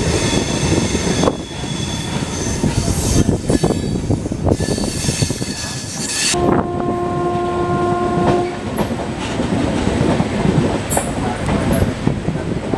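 Hemkunt Express passenger train running, heard from one of its coaches: the wheels rumble and clatter over the tracks, with a high steady squeal from the wheels on a curve. About halfway through, the horn sounds one steady blast of about two seconds.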